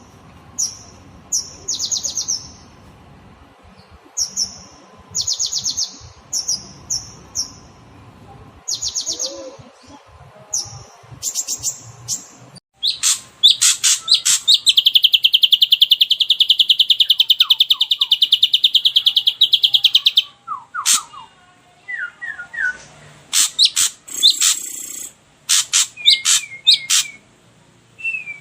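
Songbird calls from a bird-song tutor recording: short, harsh, buzzy calls repeated about once a second, then, about halfway through, a long fast rattling trill lasting about seven seconds, followed by a mix of sharp chirps and short falling whistles.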